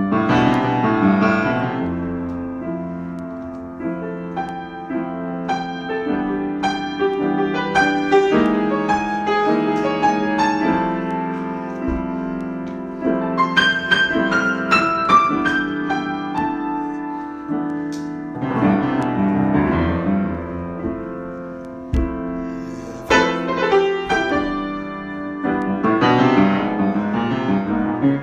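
Solo piano improvisation: slow sustained chords over a held low note, broken by quick runs of higher notes near the middle and again toward the end.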